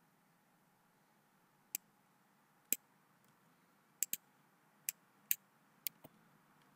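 Computer mouse clicking: about eight short, sharp clicks spread unevenly, including a quick double-click about four seconds in.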